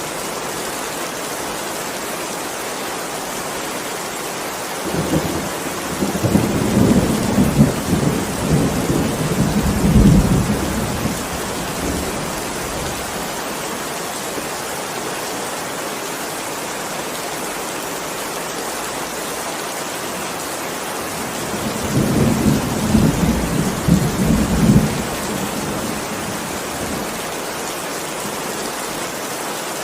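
Steady rain with two rolls of thunder. The first rumble starts about five seconds in and lasts some seven seconds; a shorter one comes about twenty-two seconds in.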